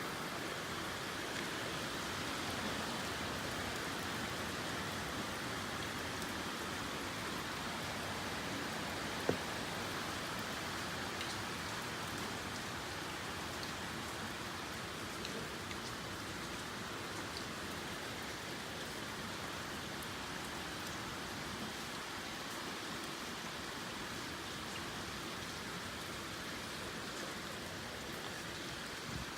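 Steady typhoon rain, an even rushing hiss, with one sharp tap about nine seconds in.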